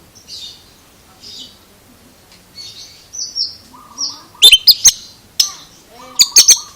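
Oriental magpie-robin (kacer) singing: short whistled phrases, broken by loud sharp clicks in a cluster past the middle and again near the end.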